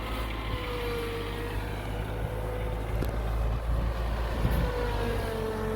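Tractor engine running steadily as its front loader works into a pile of compacted snow, with a thin whine that dips slightly in pitch twice.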